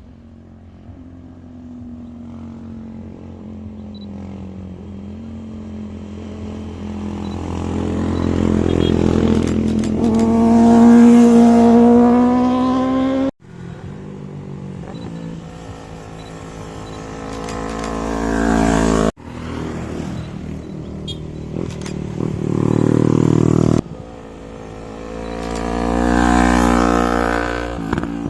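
Engines passing close by in several spliced clips. Each swells louder with a gliding pitch and is cut off abruptly, at about 13, 19 and 24 seconds in.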